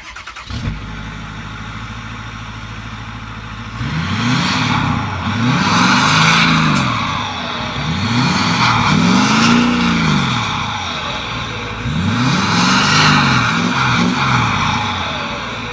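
Ford 6.4 Power Stroke V8 turbo-diesel with a straight-piped exhaust starting up and idling, then revved several times in rising-and-falling pulls from about four seconds in, easing back toward idle near the end.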